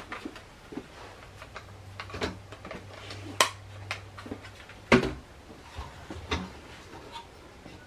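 A small 1/16-scale plastic RC truck driving over obstacles: scattered clicks and knocks of plastic parts, the loudest about three and a half and five seconds in, over a faint low hum during the first half.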